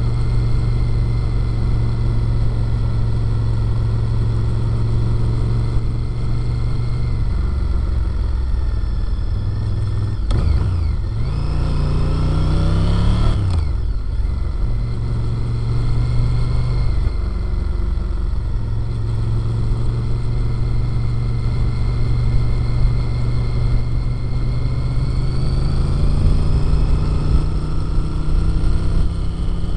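Sport motorcycle engine and exhaust at road speed, with wind and road noise. About ten seconds in the revs climb for a few seconds, then drop sharply at a gear change. The engine pulls up again near the end.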